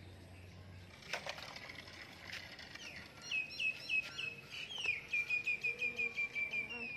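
A bird calling in a quick series of high, repeated chirps. It begins about three seconds in and speeds up into a fast, even run near the end. A couple of short knocks come before it.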